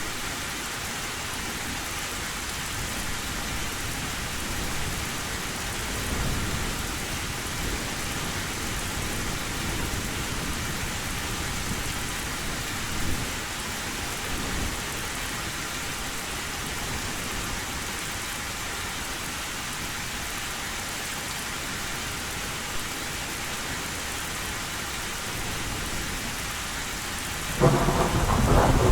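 Heavy rain falling steadily on an old tin roof, with low thunder rumbling now and then and a loud thunderclap breaking in near the end.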